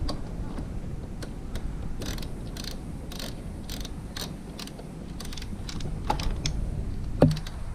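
Hands-on repair work: a run of small mechanical clicks and taps, a few a second, with one louder sharp knock near the end.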